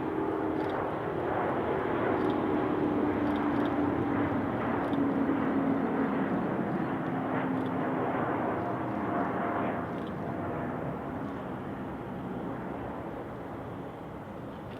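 Airbus A350-900's twin Rolls-Royce Trent XWB turbofans at takeoff power going past: loud jet noise with an engine tone that slowly falls in pitch, fading over the last few seconds as the aircraft moves away.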